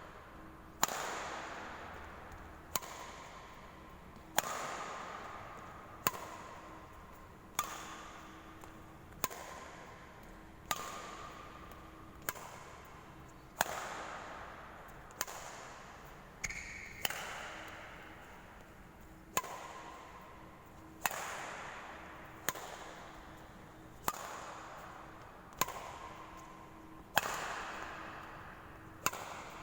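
Badminton racket striking a shuttlecock again and again in a rear-court hitting drill, one sharp crack roughly every one and a half seconds, each echoing in the hall.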